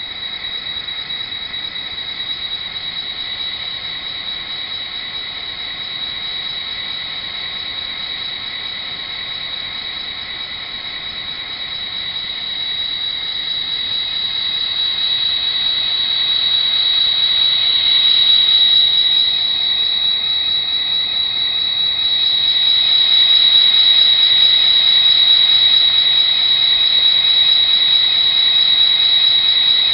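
Factory-installed Sound Value DCC sound decoder in an Athearn SD40R model locomotive playing diesel prime mover sound through its small speaker, with a steady high whine. The sound starts suddenly and gets louder in the second half as the engine revs up, with a brief dip partway through.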